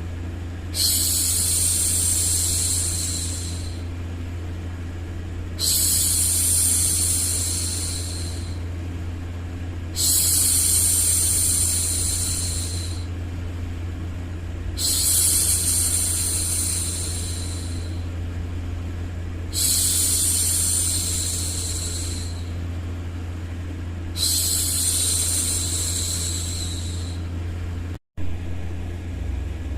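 A woman's voice making long 'shhh' hushing sounds to soothe a baby, six of them, each about three seconds long and coming roughly every five seconds. Under them runs a steady low white-noise rumble. The sound cuts out for an instant near the end.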